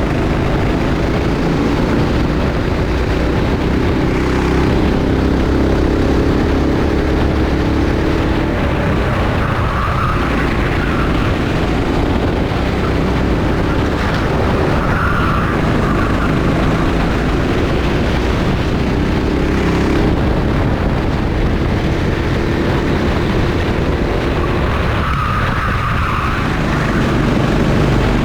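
Rental kart engine running hard during a race, its pitch climbing as it accelerates and dropping about every five seconds as it slows, over a steady low rumble.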